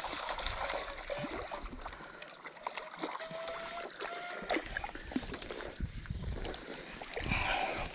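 Running water with a steady rushing sound, with scattered small clicks and knocks.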